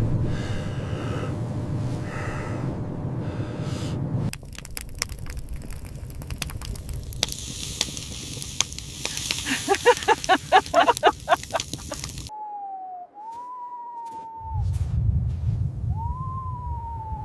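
A string of separate sounds joined by hard cuts. First a low rumble of wind, then crackling like a fire, with a quick run of pitched pulses in the middle. Then long, slowly falling howls of a wolf over the returning wind rumble.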